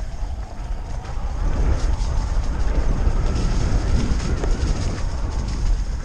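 Continuous wind rumble on a GoPro's microphone with the rattle and clatter of a Thrill Ricochet e-mountain bike riding over rough trail.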